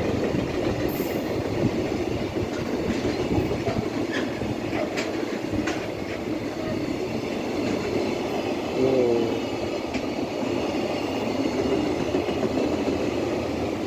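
A long freight train passing close by, its wheels running on the rails in a steady rumble with a clickety-clack of rail joints and a few sharp clicks.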